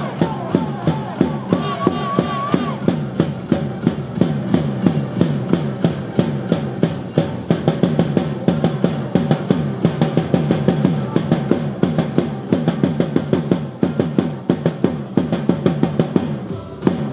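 Baseball cheer music with fast, steady drumming, loud and continuous throughout, and a melodic line over it near the start.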